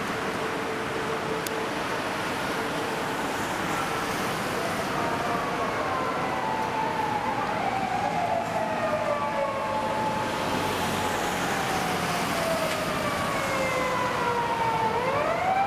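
Japanese police car sirens wailing over city traffic noise. The pitch falls slowly over several seconds, falls again, then sweeps sharply upward near the end, growing louder as the cars approach.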